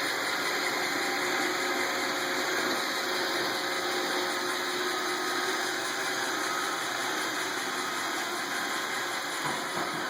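iRobot Roomba robot vacuum running, its motor giving a steady, even whir.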